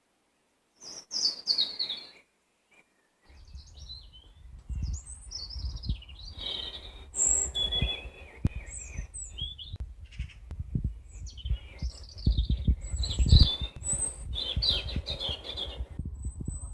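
Songbirds singing, overlapping phrases of chirps and short falling trills, starting about a second in. A low rumble with scattered thumps runs underneath from about three seconds in.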